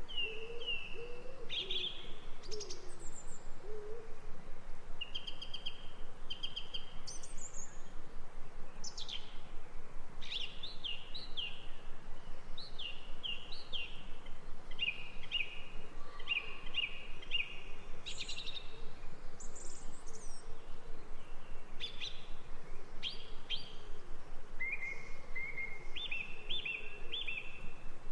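Several birds singing, with many short, repeated high chirps and trills from more than one singer, over a steady background hiss. A lower call repeats beneath them during the first few seconds.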